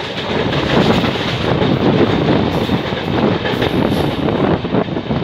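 Passenger train of LHB coaches running at speed through a station. There is a steady loud rumble of wheels on rails, with a dense irregular clatter of clicks over the track.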